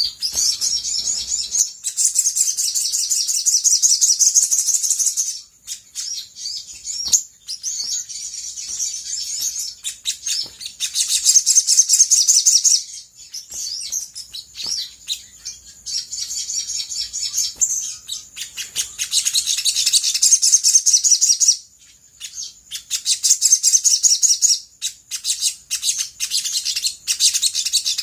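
Olive-backed sunbird singing in long, very rapid, high-pitched trilling phrases of a few seconds each, broken by short pauses.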